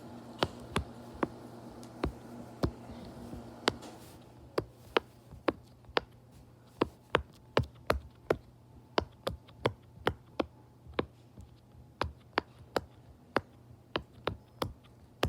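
Silicone pop-it fidget toy having its bubbles pressed in one after another: a long run of sharp little pops, about two or three a second.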